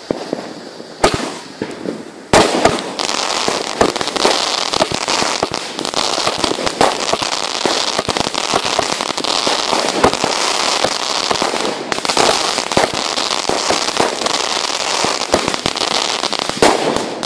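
Aerial fireworks going off: a single bang about a second in, then from a little after two seconds a dense, continuous barrage of crackling and popping bursts.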